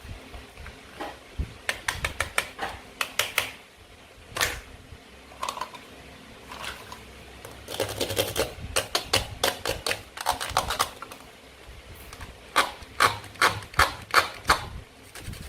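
Toy food being cut and handled: quick runs of sharp clicks and taps, with a dense stretch in the middle and another near the end.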